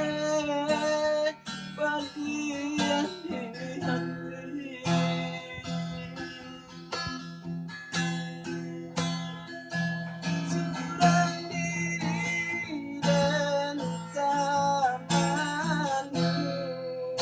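Music: an acoustic guitar strummed in a regular rhythm, with a melody line over it.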